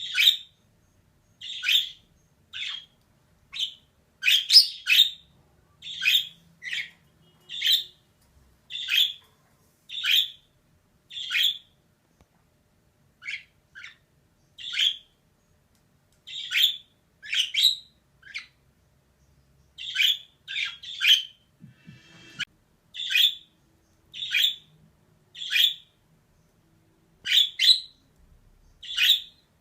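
Female budgerigar giving short, sharp chirping calls, about one a second and sometimes two in quick succession.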